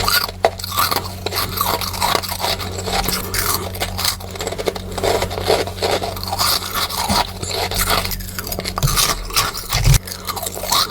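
Close-miked crunching and chewing of freezer frost, with dense, rapid, irregular crunches and scraping, sped up.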